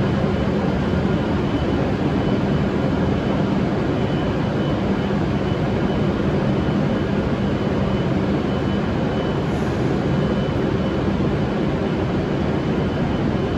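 Hokuriku Shinkansen E7/W7-series train at the platform, its onboard equipment running with a steady hum and a faint high whine.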